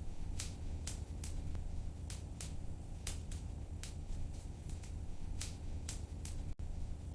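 Wood fire crackling in a fireplace: irregular sharp pops and snaps, about two a second, over a steady low rumble of the flames. The sound cuts out for an instant about six and a half seconds in.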